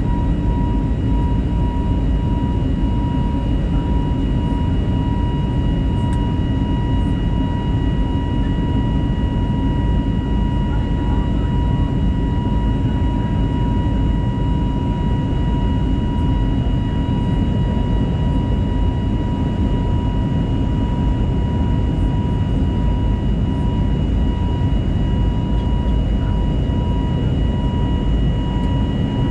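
Steady cabin noise inside an Airbus A320neo in its climb after takeoff: a dense, even rumble of airflow and its CFM LEAP-1A turbofan engines, with a few steady high whining tones above it.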